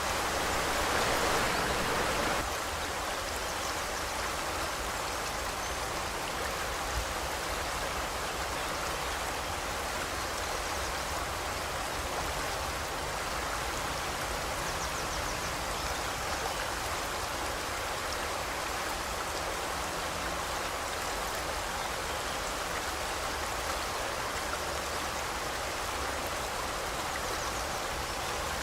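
River water flowing over rocks: a steady rushing that turns slightly quieter about two seconds in, then holds even.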